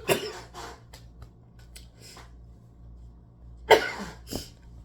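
A woman coughing in short bursts, a few lighter ones and then two sharp, loud coughs near the end, as if choking a little. She puts it down to sucking in too much air while eating spaghetti.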